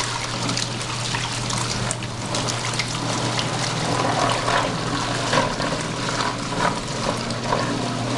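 1973 Fridgette twin-tub washer spin-drying: steady motor hum from the spinner, which also drives the wash impeller and drain pump, with water trickling and splashing as the spun-out water is pumped back through the drain hose into the wash tub.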